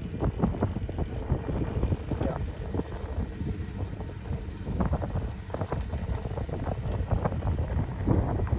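Wind buffeting the microphone on a moving tour boat, an irregular low rumble and rush with the boat's motor running steadily underneath.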